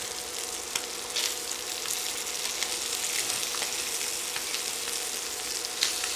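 Scallops sizzling in hot coconut oil in a cast-iron skillet, with a few light clicks of metal tongs against the pan as they are lifted out.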